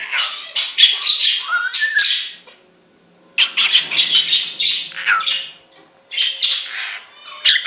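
Male cockatiel chattering and singing to its reflection in a mirror: rapid runs of harsh, scratchy notes mixed with short whistled glides, in three bursts with brief pauses about two and a half and six seconds in.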